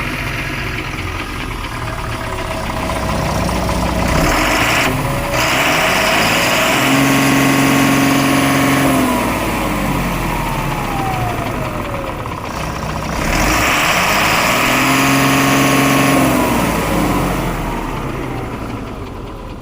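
Ashok Leyland 2518 ten-wheel truck's diesel engine idling and revved twice. Each time the pitch rises, holds for a couple of seconds, then falls back to idle: first about four seconds in, again about two-thirds of the way through.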